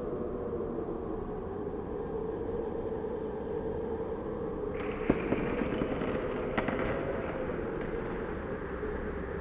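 Steady howling drone of blizzard-like ambience, its pitch slowly wavering. About five seconds in, a burst of crackling noise with a few sharp knocks lasts roughly two seconds.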